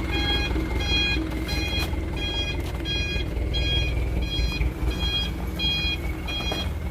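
Mitsubishi Canter dump truck's reversing beeper sounding evenly, about three beeps every two seconds, over the steady running of the truck's engine.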